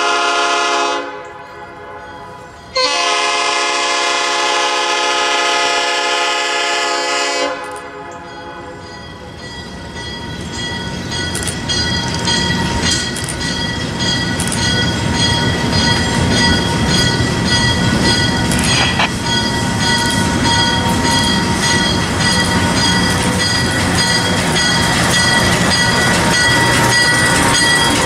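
Cuyahoga Valley Scenic Railroad diesel locomotive sounding its multi-note air horn twice, a short blast and then a long one of about five seconds. The train then draws near and passes close by, its engine and wheels growing steadily louder, with a steady ringing tone over the noise.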